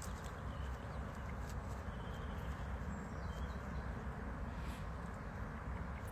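Steady outdoor background of low rumble and hiss, with a few faint, short, high bird calls.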